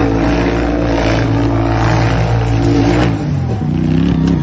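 Radio-controlled truck's motor running at a steady pitch, then dropping in pitch and level and wavering about three seconds in.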